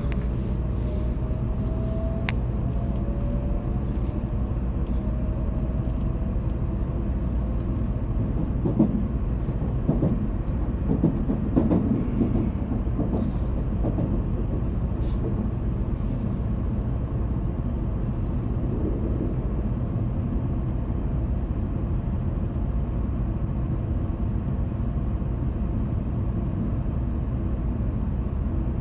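Shinkansen train running at speed, heard from inside the passenger cabin: a steady low rumble of wheels and running noise. A faint whine glides and fades in the first few seconds, and a few brief louder sounds come around ten to fourteen seconds in.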